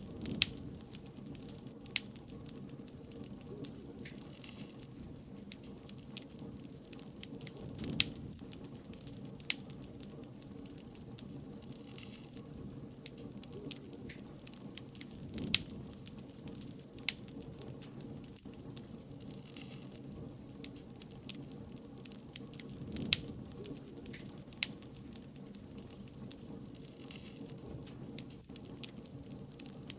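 Wood bonfire crackling: irregular sharp snaps and pops over a steady low rush of burning, with a handful of louder pops scattered through.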